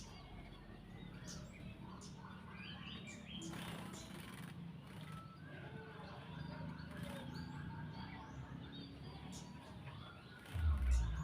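A cucak jenggot (brown-cheeked bulbul) giving short chirps and calls, over a steady low hum. There is a brief rush of noise about three and a half seconds in and a loud low thump near the end.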